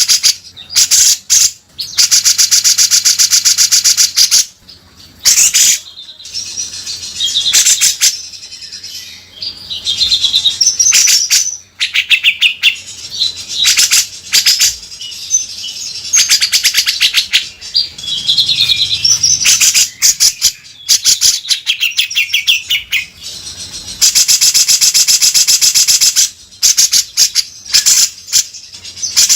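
Grey-cheeked bulbul (cucak jenggot) singing loudly in a harsh, rough style: long, rapid rattling trills of a few seconds each, alternating with shorter curling phrases.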